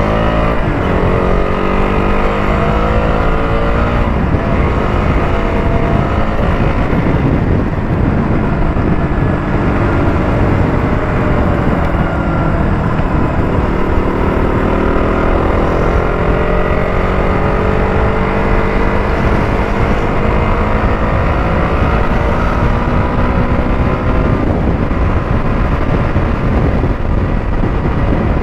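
KTM Duke 200's single-cylinder four-stroke engine running on the move, its pitch dropping right at the start and then rising again several times as the bike accelerates through the gears, over a steady low rumble of road and wind.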